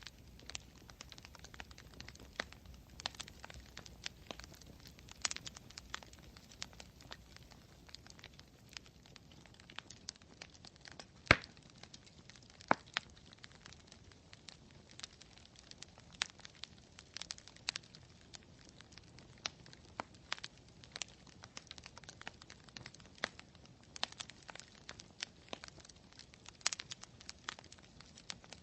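Campfire crackling: irregular sharp pops and snaps of burning wood over a low hiss, with one louder pop about eleven seconds in.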